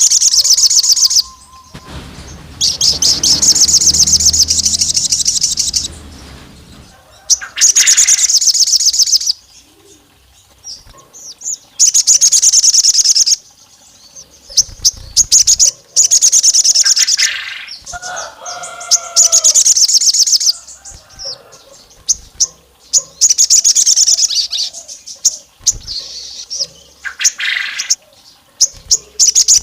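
Sogon songbird singing in repeated bursts of rapid, high-pitched trilling chirps. Each phrase lasts one to two seconds, with short pauses between phrases.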